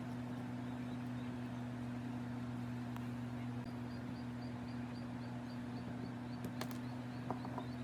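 Steady low electrical or motor hum, with a faint high ticking about three times a second joining partway through and a few sharp clicks near the end.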